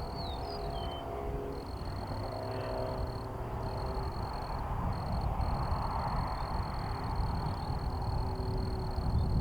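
Distant jet rumble of a Boeing P-8A Poseidon's CFM56 turbofans, slowly growing louder, with a few faint bird chirps about half a second in.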